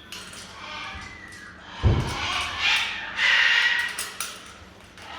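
A green-winged macaw giving a loud, harsh squawk about three seconds in, just after a dull thump near the two-second mark. Light clicks and taps are scattered throughout.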